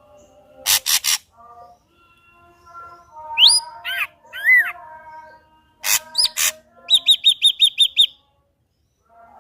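Ashy drongo singing a varied song. It opens with harsh, scratchy bursts, then gives slurred whistles that rise and fall, more harsh notes, and a quick run of about eight sharp repeated notes. It stops for about a second near the end.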